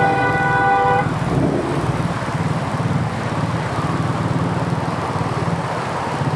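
Motorcycle engine running steadily in traffic, with a vehicle horn sounding for about the first second.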